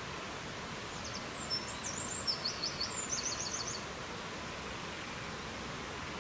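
A steady rushing background noise of wind or water. About a second in, a songbird sings one high phrase of quick repeated notes and trills that lasts about three seconds.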